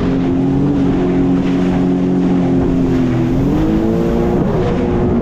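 Jet ski engine running at speed over wind and water noise, its pitch steady and then climbing about three and a half seconds in as it accelerates.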